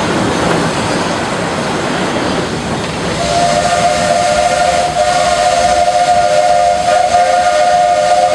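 Steam locomotive of the Walt Disney World Railroad running along, then about three seconds in its steam whistle sounds one long, steady blast, a chord of several tones.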